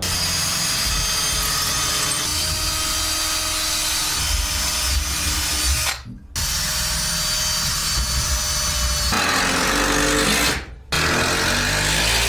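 Power drill driving screws into wood, running steadily and stopping briefly twice, with its pitch dropping about nine seconds in.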